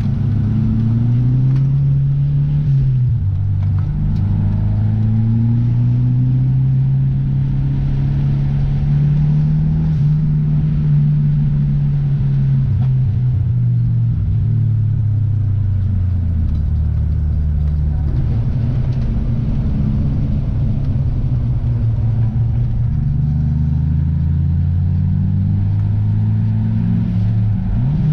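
Car engine running while driving, its pitch climbing and falling repeatedly as the car accelerates, shifts and slows, with a sudden drop in pitch about three seconds in.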